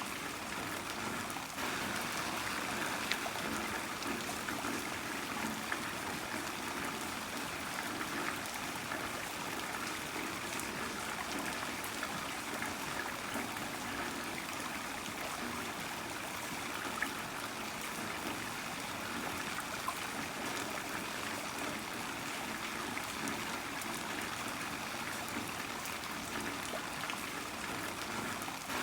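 Heavy rain falling steadily: an even wash of noise with now and then a sharper single drop.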